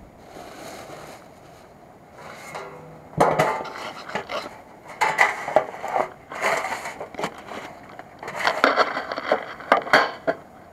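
Metal camp cookware and gear being handled, clinking, clattering and scraping in three bouts with sharp clicks, starting about three seconds in.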